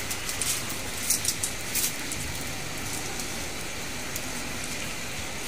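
Minced garlic sizzling in oil on a tabletop electric grill pan, a steady hiss with a few short crackles in the first two seconds.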